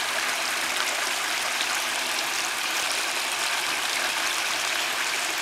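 Water cascading steadily down a small log fish ladder between ponds, a continuous rushing splash.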